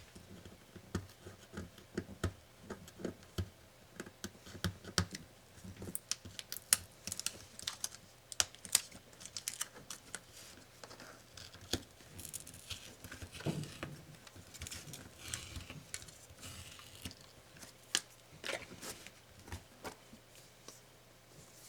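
Hands taking apart a laptop LCD panel: an irregular string of small plastic clicks and taps, with crinkling and tearing of thin film sheets.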